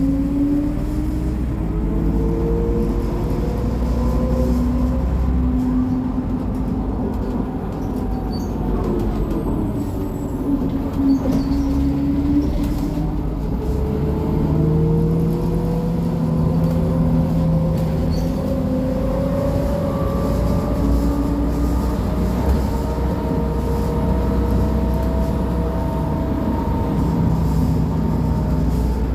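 Mercedes-Benz O500MA articulated bus's BlueTec 5 diesel engine running under way, driving through its ZF Ecomat 6-speed automatic gearbox. The engine note climbs in the first few seconds, falls back around ten seconds in, then climbs again from about fourteen seconds and holds steady near the end.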